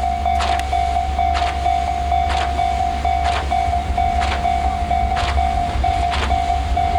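Tobu 350 series electric train passing with a steady low rumble and a sharp wheel clack about once a second. Over it a level-crossing warning bell rings a steady repeating tone.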